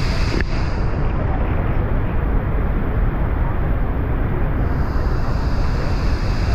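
Steady roar of water plunging over Niagara's Horseshoe Falls, a loud, even rush heaviest in the low end.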